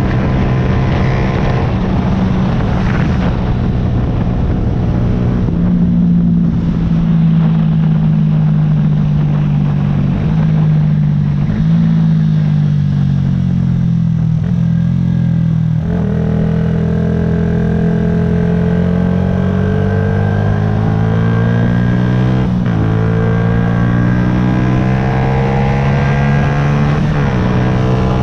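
Yamaha YZF-R125's single-cylinder four-stroke engine running under the rider, its note rising and falling with the throttle, with several short dips where gears are changed.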